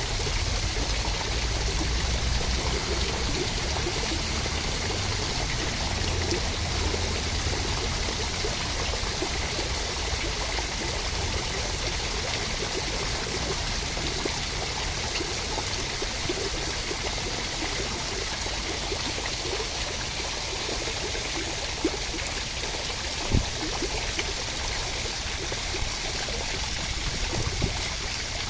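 Steady rain: an even rushing hiss with a low rumble underneath, unchanging throughout, with one sharp tap about three-quarters of the way through.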